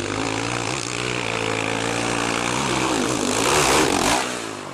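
Motocross motorcycle engine running at a steady pitch, then louder with its pitch wavering a little past three seconds in, before the sound falls away sharply near the end.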